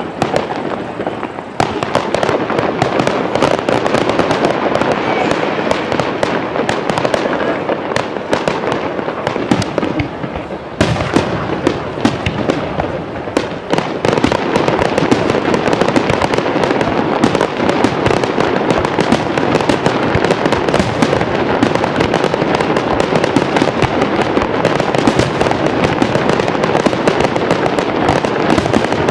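Fireworks display: a rapid, continuous barrage of shell bursts and crackling, growing louder and denser about halfway through.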